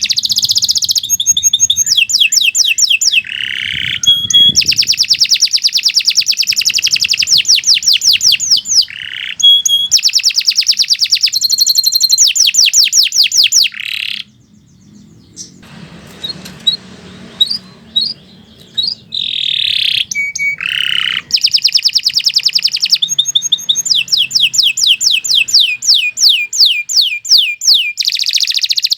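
Domestic canary singing long, continuous song: rapid trills and rolls of fast repeated high notes, broken by a short quieter pause about halfway through before it resumes.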